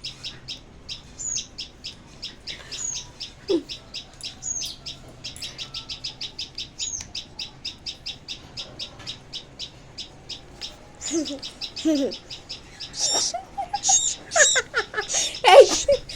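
A small pet bird chirping in a fast, even run of short, high notes, several a second, some sliding down in pitch. From about eleven seconds in, louder, lower calls mix in, loudest near the end.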